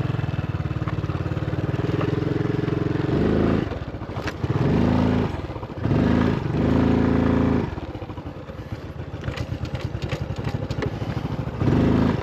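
Motorbike engine running under way, its note rising and falling several times as the throttle is opened and eased off.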